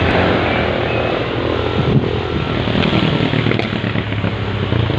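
Diesel engine of heavy machinery running steadily, with a few short clicks or clanks about three seconds in.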